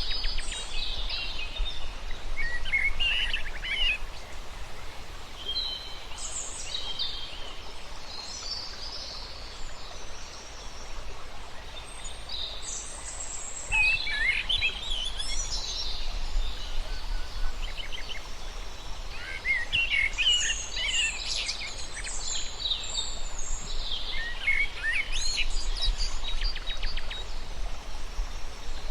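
Several birds chirping and singing, some calls in quick trills, over a steady low background of outdoor noise. The calling thins out for a few seconds mid-way, then grows busier again.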